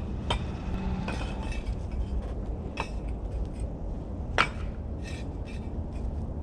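Scattered light clinks and taps of hard objects being handled, with one sharper click about four seconds in, over a steady low rumble.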